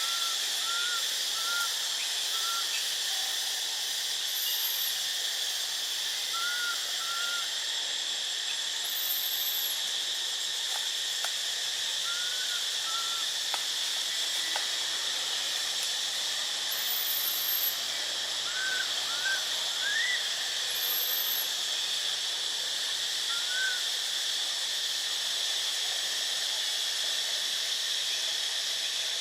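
Outdoor ambience: a steady high-pitched insect drone, with scattered short chirps, often in pairs, and a few faint high whistled sweeps.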